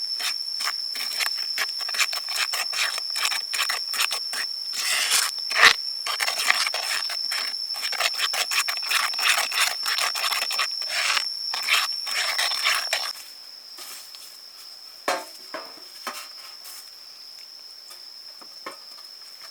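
Rapid, repeated scraping strokes that stop about thirteen seconds in, followed by a few separate knocks. A steady high-pitched insect drone runs underneath throughout.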